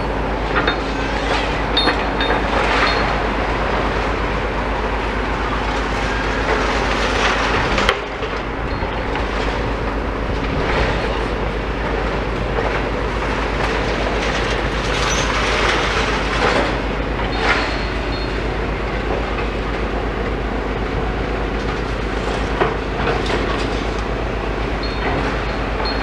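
Demolition excavators' diesel engines running steadily, with scattered clanks and scrapes as concrete and metal debris is crunched and moved.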